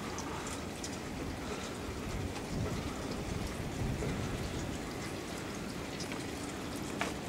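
Steady rain falling with gusting wind, an even hiss that swells a little in the middle.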